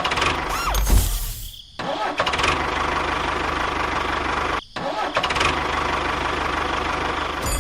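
A small engine running steadily with a fast, even beat, cut off briefly twice.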